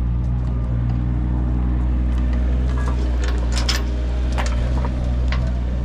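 Diesel engine of a piece of earthmoving equipment running steadily at a constant speed, with a few sharp metallic clanks in the second half.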